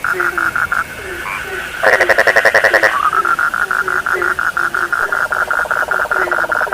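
A chorus of several frogs calling together. One frog keeps up a fast, even pulsed call. A louder rattling call comes in about two seconds in and lasts about a second. Under them, short low croaks drop in pitch and repeat about twice a second.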